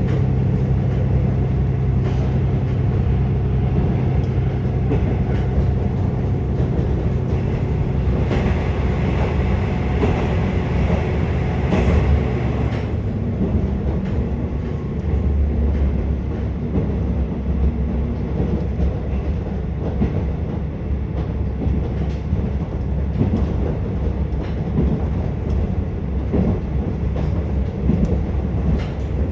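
Inside a KiHa 47 diesel railcar running along the line: steady diesel engine drone with wheel-and-rail noise and scattered rail-joint clicks. About 12 s in the engine's steady note drops away, leaving mostly rolling rail noise.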